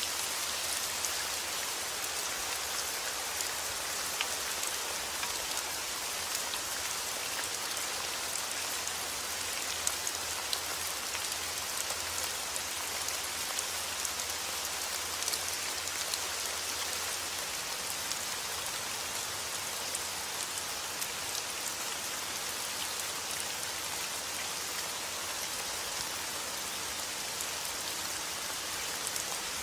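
Heavy rain falling steadily outdoors, a constant hiss of drops hitting surfaces with scattered individual drop ticks.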